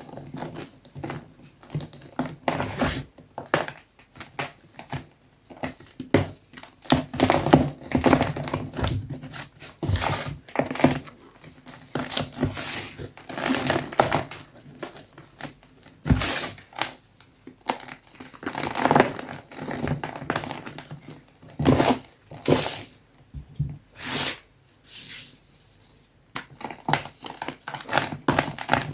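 Soft blocks of gym chalk being crushed and crumbled by hand, giving irregular crunchy, crackly crunches in uneven clusters with short pauses between.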